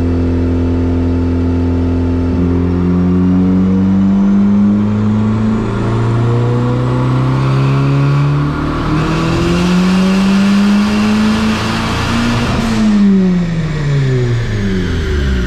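Turbocharged 1.8T 20-valve four-cylinder of a MK4 Volkswagen making a dyno pull with the boost turned up: the engine runs steady, then from about two seconds in the revs climb smoothly. A loud rushing noise joins near the top of the pull, cuts off suddenly about thirteen seconds in as the throttle closes, and the revs fall away.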